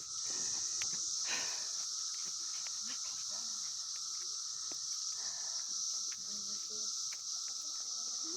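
Steady high-pitched drone of an insect chorus, with scattered light ticks and rustles.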